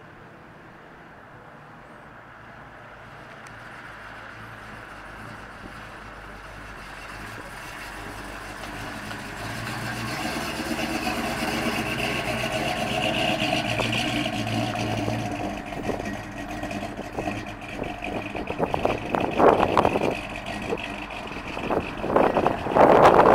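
1969 Dodge Coronet Super Bee's V8, a 440 Six-Pack bored to 493 cubic inches with a hotter camshaft, running as the car drives up from a distance, growing louder until it passes close by about halfway through. It then runs at low speed with several short, loud bursts from the exhaust near the end.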